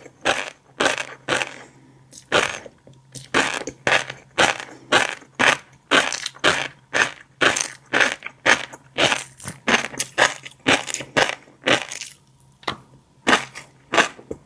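Close-miked chewing of a mouthful of fish roe: the firm little eggs crunch and pop between the teeth in quick, regular bites, about two or three a second, with a couple of brief pauses.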